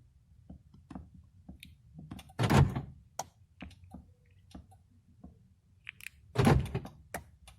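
Two heavy thunks from a Nissan Cefiro A32's car door, about four seconds apart, with light clicks and taps between them.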